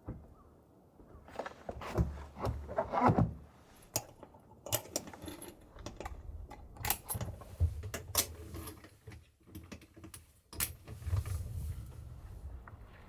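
Small hard objects clinking and rattling as they are handled, a run of irregular clicks with some rustling and low thuds.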